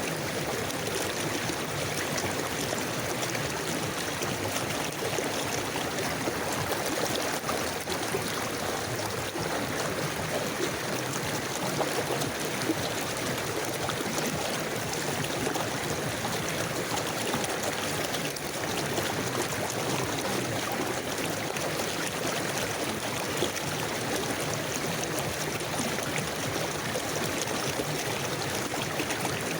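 River water flowing and gurgling in a steady, even rush.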